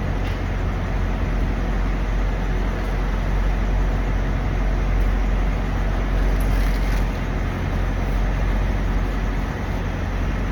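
Steady low rumble of vehicle engines and road traffic, running evenly without a break.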